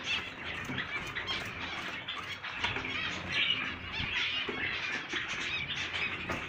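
Many caged aviary birds chirping and squawking at once in a dense, continuous chatter.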